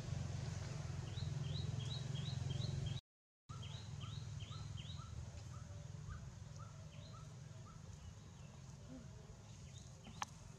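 A bird calling in rapid, repeated short chirps, about three or four a second, over a steady low hum of outdoor background noise. The sound drops out completely for half a second about three seconds in, and a single sharp squeak comes near the end.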